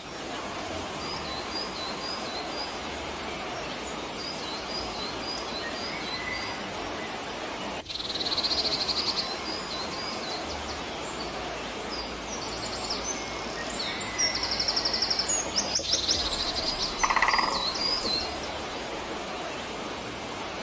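Birds calling: repeated short, high chirps over a steady background hiss. Buzzy trills come about 8 seconds in and again from about 13 to 16 seconds, and a lower, louder call sounds near 17 seconds.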